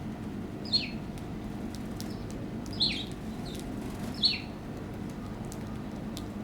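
A small wild bird calls three times, each a short chirp sweeping downward in pitch: about a second in, near three seconds, and just after four seconds. A steady low hum runs underneath.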